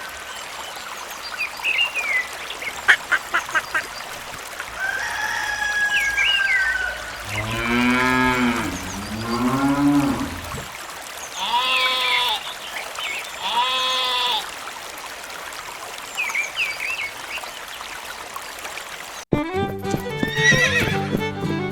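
Farm ambience: a cow mooing once in a long low call, two shorter, higher animal calls after it, and birds chirping now and then. Music comes in suddenly near the end.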